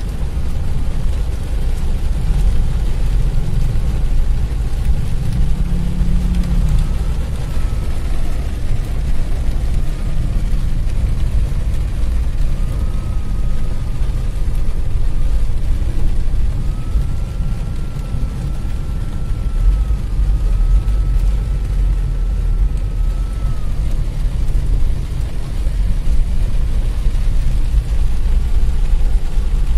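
Heavy rain falling on a car's roof and windshield, heard from inside the car, over a steady low rumble of engines in slow traffic.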